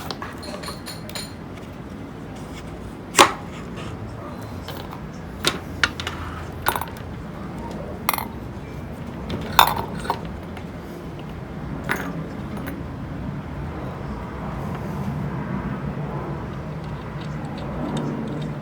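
Sharp metallic clinks and taps of small metal fan parts and tools being handled during reassembly, about six of them spread out, over a steady low background noise.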